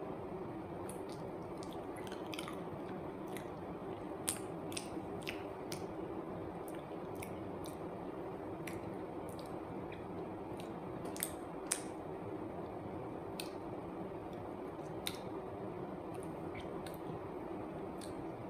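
A person biting and chewing soft banana close to the microphone, with scattered wet mouth clicks and smacks over a steady background hum.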